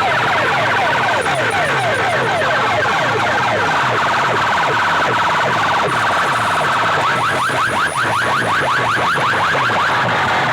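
Electronic siren effect played loud through a DJ sound-box rig, in fast repeating sweeps. The sweeps fall about four times a second, then change to quicker rising sweeps about seven seconds in.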